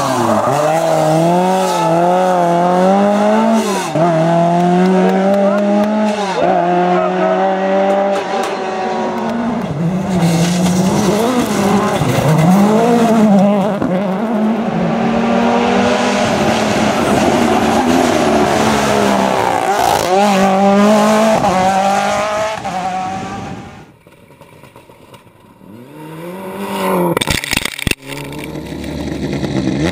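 Rally car engine at full throttle, its revs climbing and dropping back again and again through gear changes and lifts. About 24 s in the sound falls away. Another car then approaches, and its sound cuts off abruptly a couple of seconds later.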